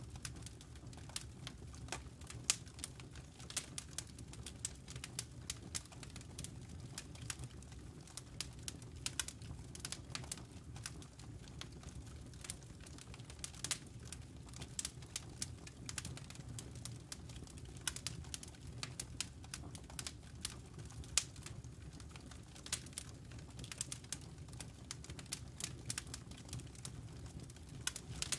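Wood campfire crackling: many irregular sharp pops and snaps over a steady low rumble of the burning fire.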